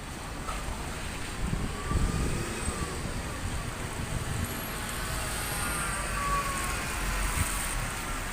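Volvo B7RLE single-deck bus driving by with its diesel engine running: a low rumble that swells over the first couple of seconds, with a faint whine rising and falling above it.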